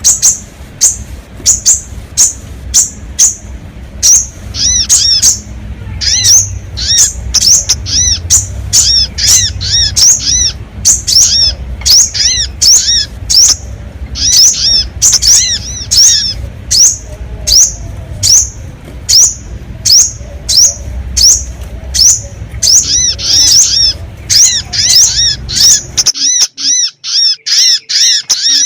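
Small birds' sharp, high-pitched chip calls repeated rapidly, about two a second, some with quick downslurred trills, played as a bird-lure recording. A low background rumble under the calls cuts out suddenly near the end.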